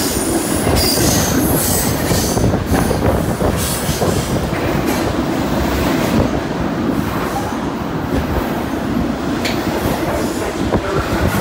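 Freight cars of a long freight train rolling past, steel wheels rumbling and clacking over the rail joints, with high-pitched wheel squeal that is strongest in the first few seconds.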